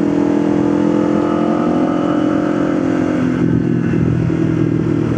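Motorcycle engine running under way, holding a steady pitch and then dropping in pitch about three seconds in as the rider eases off or shifts.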